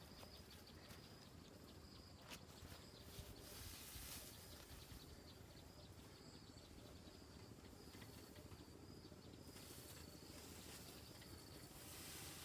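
Near silence: faint rural outdoor ambience with scattered soft clicks and a faint, broken high tone.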